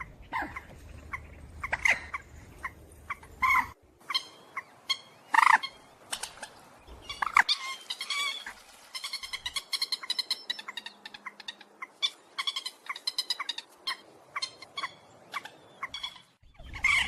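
Recorded calls of the cuốc biển, a waterhen-type rail: a string of short, sharp calls, then a fast run of repeated notes from about nine seconds in.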